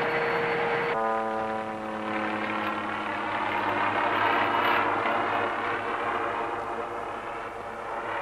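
Piston engines of propeller-driven racing aircraft running steadily as the planes fly the course, a hum of several tones over noise; the tones change about a second in.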